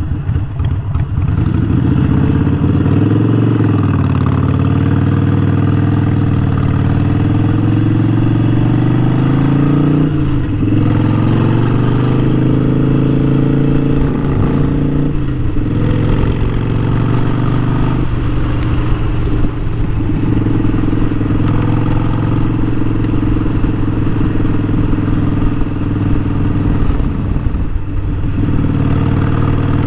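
Harley-Davidson Sportster 1200's V-twin engine running under way, its pitch climbing as it accelerates, with short dips at gear changes about ten, fifteen and nineteen seconds in and again near the end.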